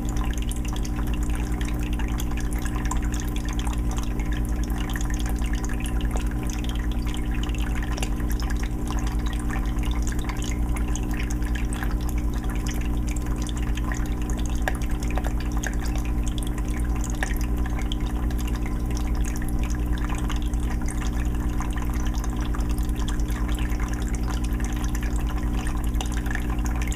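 Aquarium water filter running: water steadily trickling and dripping back into a 20-gallon fish tank, over a steady low hum.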